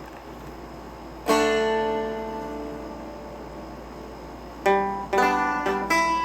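Seagull Merlin M4 four-string dulcimer played with a flatpick: a chord strummed about a second in is left to ring and fade, then a run of quicker picked notes starts near the end.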